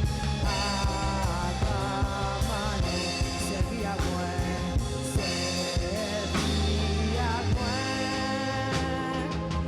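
Gospel worship song played live by a church band with drum kit, with singing over it.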